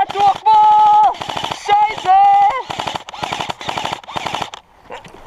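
Airsoft electric rifle firing full-auto bursts, each with the whine of its motor and gearbox. It fires a short burst at the start and two longer bursts of just under a second each, followed by about two seconds of rapid cracks.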